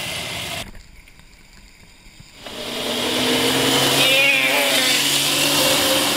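Small electric dirt bike's motor whining steadily under way, with wind rushing over the microphone. The sound drops away briefly about a second in and builds back up.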